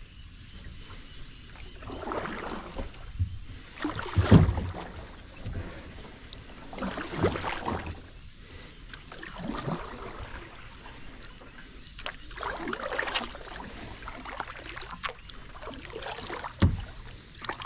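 Kayak paddle strokes swishing through swamp water, one every two to three seconds, with a few sharp knocks.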